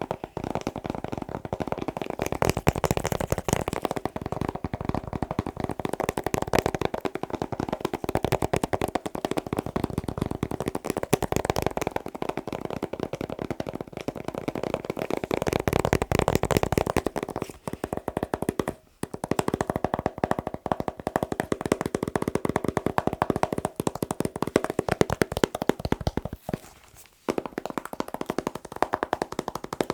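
Fingers tapping fast on assorted objects, a dense run of many quick taps a second, with two brief pauses, one about two-thirds through and one near the end.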